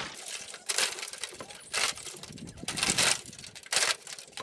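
Near-boiling water poured onto the plastic front bumper of a 2007 Toyota Prius, splashing in about four short gushes, to heat and soften the dented plastic.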